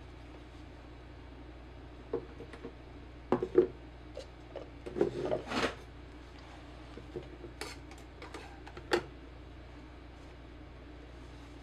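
Light clinks, taps and rubbing from handling a glue brush and container while contact cement is brushed onto jacket fabric: about a dozen short knocks, spread out, the loudest a few seconds in.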